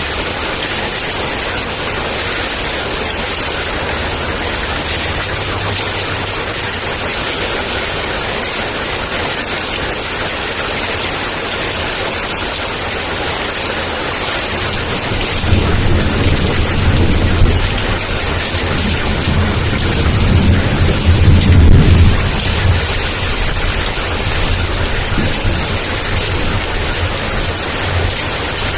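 Heavy steady rain, with a roll of thunder rumbling in about halfway through, building to its loudest a few seconds later and fading out.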